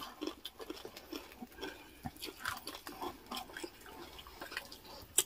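Close-miked chewing and crunching of crispy deep-fried pork (chicharon bagnet): soft, irregular crackles, with one sharper click near the end.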